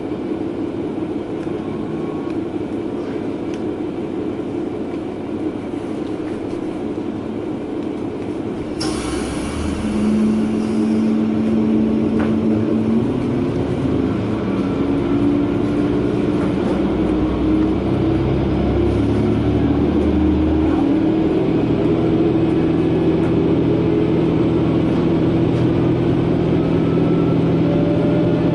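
Diesel railcar (JR West KiHa 120) heard from inside the cabin: steady running noise, then about nine seconds in the engine throttles up and gets louder, with a slowly rising pitch as the train accelerates.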